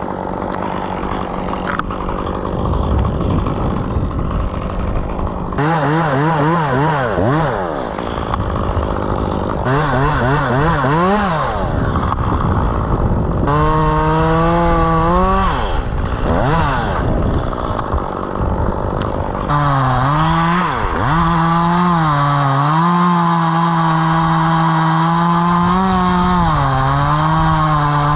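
Chainsaw running and cutting wood, its engine pitch rising and dipping over and over as the chain bites and frees, then holding steadier through the last third with brief dips.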